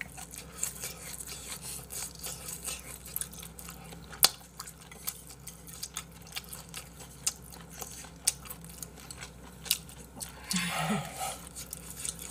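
Close-up chewing and mouth sounds of someone eating squid from spicy braised monkfish, with scattered sharp clicks of chopsticks on dishes. A short murmur of voice comes near the end.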